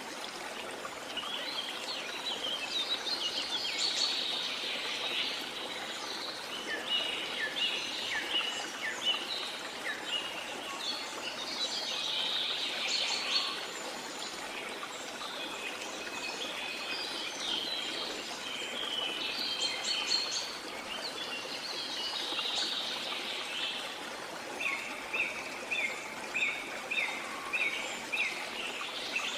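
Waterfall rushing steadily, with many birds chirping and calling over it. Near the end one bird repeats a short note about twice a second.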